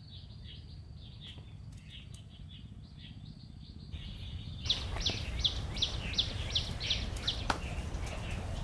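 A bird chirping: faint calls at first, then a run of about eight short, quick chirps in the second half, over a steady low rumble.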